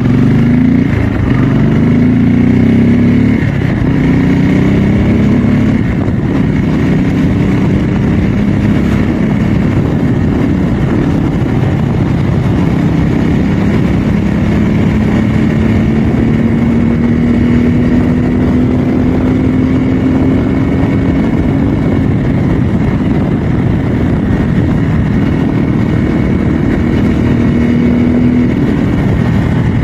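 Bajaj Pulsar N250's single-cylinder engine running under way. Its pitch steps up and down in the first few seconds, then climbs slowly and steadily through the middle as the bike gathers speed.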